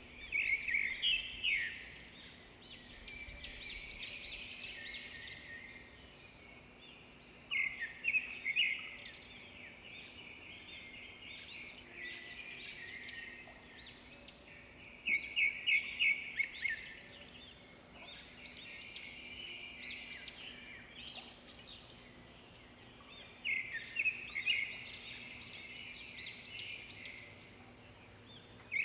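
Songbirds singing: one loud, rapid song phrase of chirps comes back about every seven to eight seconds, four times, with softer chirping from other birds in between.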